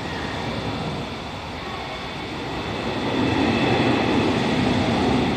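Freight train's container flatcars rolling past on the rails: a steady rumble of wheels and running gear that grows louder about three seconds in.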